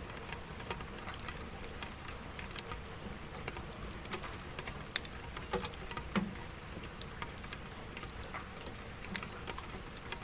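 Rain falling: a steady hiss with many individual drops ticking and pattering irregularly on a hard surface.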